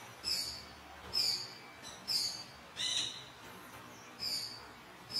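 A bird calling: short, high-pitched calls, much alike, repeated roughly once a second.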